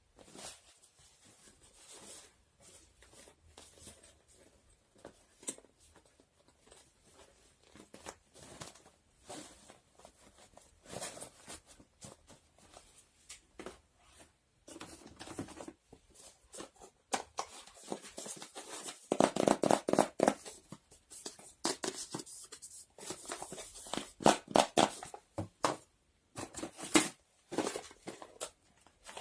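Close-up handling of household objects: a scattered run of light taps and clicks with rustling, growing busier and louder about two-thirds of the way through.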